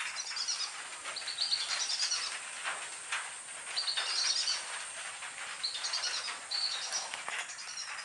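Birds calling over the marsh: about five bursts of high, rapid chirping, with a faint crackle throughout.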